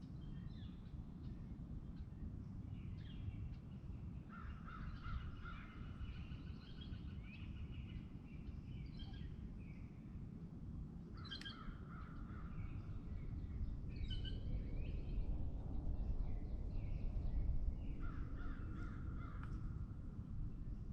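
Wild birds calling, with bursts of rapidly repeated short notes about three times, over a steady low rumble.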